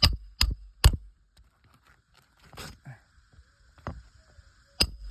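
Hammer striking on a shingle roof: three quick sharp blows about half a second apart at the start, then a few scattered single knocks.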